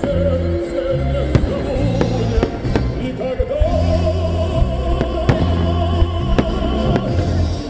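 Fireworks salute: several sharp bangs go off at uneven intervals over loud music with sustained bass notes and a melody line.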